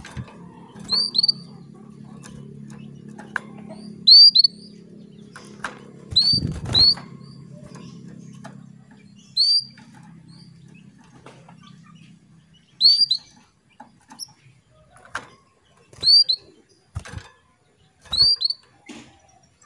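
Female canary calling: short, sharp chirps, often in quick pairs, repeated every few seconds, the call used to stir male canaries into song. Scattered light knocks and a low steady hum underneath, the hum stopping about two-thirds of the way through.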